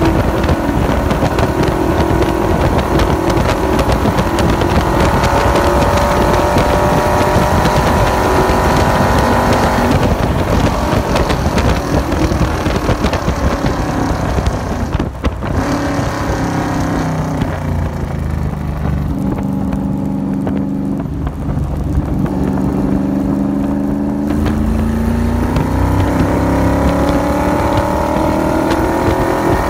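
AC Cobra's V8 at full throttle at about 120–139 mph under heavy wind noise. About a third of the way in the driver lifts and brakes for a slow corner: the revs fall in steps through the downshifts and the wind noise fades. In the last few seconds the engine revs climb again as the car accelerates out of the corner.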